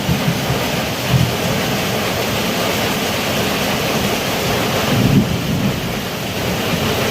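Heavy rain pouring steadily, with low rumbles swelling about a second in and again about five seconds in.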